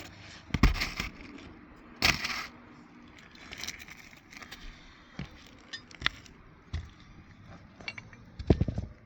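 Nails being worked out of roof shingles with a hand tool: irregular metal clicks, scrapes and crackling of the shingles, with sharp knocks about half a second, two seconds and eight and a half seconds in.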